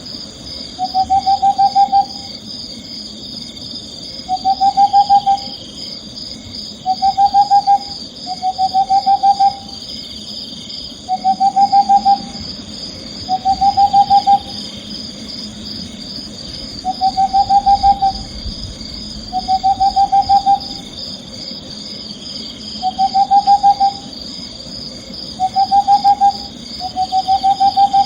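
Owl calling again and again: about a dozen short, trembling hoots, each about a second long and rising slightly, often in pairs. Under them runs a steady high-pitched chirring.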